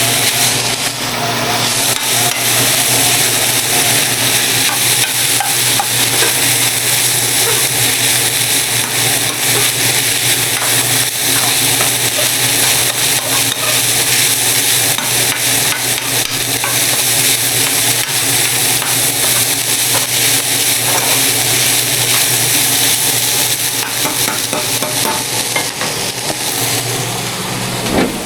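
Ground turkey frying in a pan with teriyaki sauce, a steady sizzle with occasional clicks from stirring.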